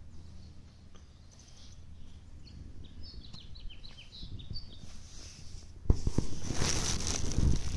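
A bird chirps in a quick run of short, high, falling notes. About six seconds in, loud rustling and bumps close to the microphone take over.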